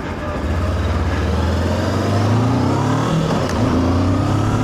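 Voge DS525X's parallel-twin engine accelerating hard, its pitch climbing, dropping with an upshift about three seconds in, then climbing again, over wind noise.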